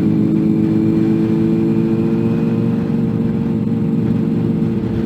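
Car engine running at a steady speed while driving, heard from inside the cabin.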